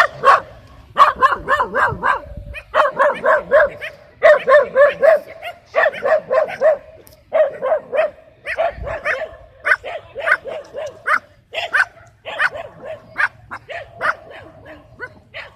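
Dogs barking and yapping in quick runs of about four or five short barks a second, broken by brief pauses and continuing throughout.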